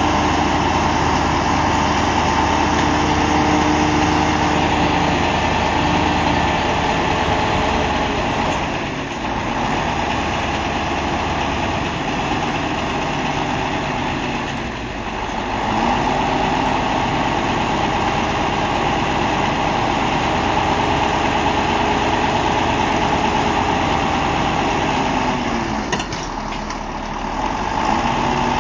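Heavy truck engine running steadily at raised revs. It sags briefly three times, about a third of the way in, halfway through and near the end, and each time climbs back up.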